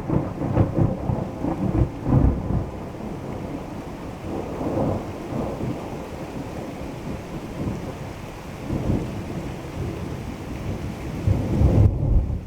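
Thunder rumbling over steady rain, with louder rolls near the start and again near the end.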